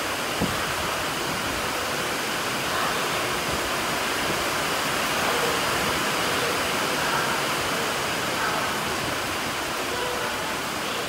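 Heavy rain falling steadily on a station platform and tracks.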